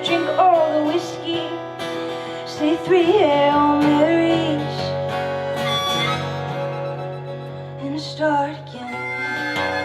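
A country-folk band playing live, with acoustic guitar and held chords under a wavering, sliding melody line.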